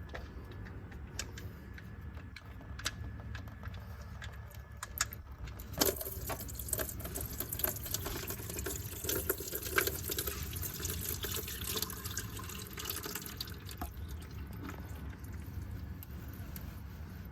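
Engine oil draining from the oil pan of a blown Ford 2.3 L EcoBoost engine, splattering into a drain pan. Scattered ticks and drips come first; about six seconds in, the stream starts splashing hard, then eases off after several seconds.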